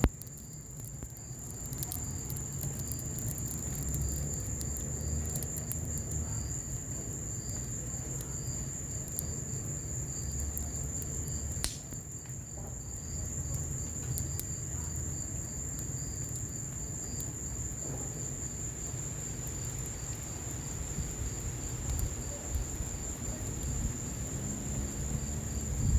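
Crickets chirping steadily over a wood fire in an outdoor patio fireplace, which crackles with scattered small pops and one sharper pop about halfway through, above a steady low rumble.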